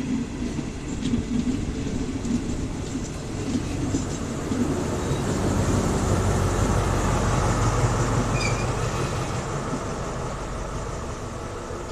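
Diesel locomotive and its passenger coaches of an arriving local train rolling slowly past on the adjacent track at close range. The locomotive's low engine drone builds and is loudest about six to eight seconds in as it passes, then the coaches' wheels rumble by and the sound eases.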